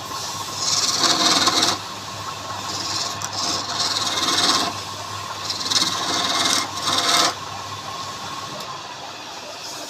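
Woodturning lathe running with a steady hum while a tool scrapes against the spinning wood in several passes of a second or two each.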